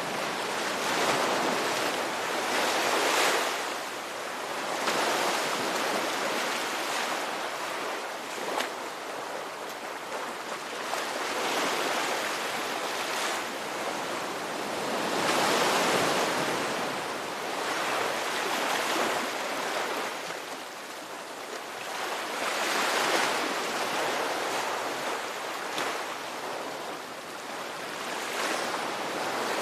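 Ocean surf: waves breaking and washing in, swelling and ebbing every few seconds.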